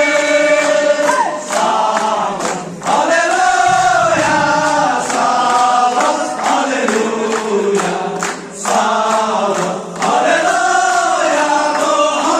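A group of voices singing together in long held phrases, pausing briefly between phrases every few seconds.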